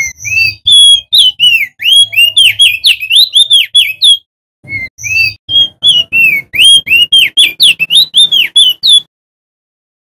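A male crested white-eye (opior jambul) singing loudly: two long bouts of rapid, sharply rising and falling whistled notes with a short break about four seconds in, stopping about a second before the end.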